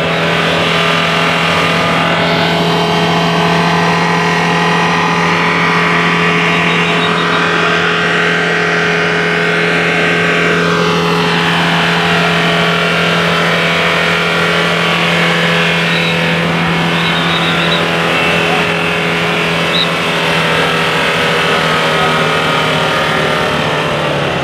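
Mahindra Scorpio engine running at a steady speed, a constant drone with a strong low hum and many overtones, which the owner presents as a major engine problem. Midway a fainter sound rises and falls in pitch.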